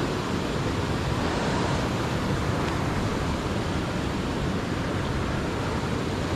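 Steady rush of white water pouring over a river waterfall swollen by heavy rain: an even, unbroken wash of noise.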